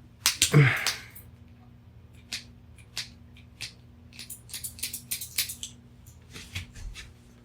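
Sharp clicks and snaps of a hand tool biting at a plastic USB plug or wall adapter that it is failing to cut through, with a quick run of clicks about two thirds of the way in, over a faint steady hum.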